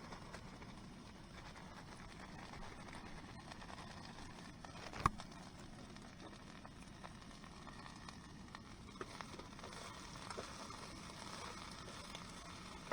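Faint rustling and light crackling, with one sharp knock about five seconds in and a few small ticks later.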